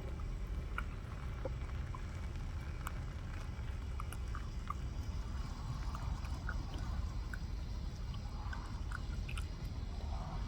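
Chewing food with small wet mouth clicks, over a steady low rumble.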